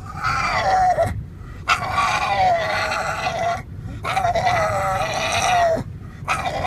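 Four long, wavering, pitched cries in a row, each one to two seconds long with short breaks between, animal-like and rough-edged.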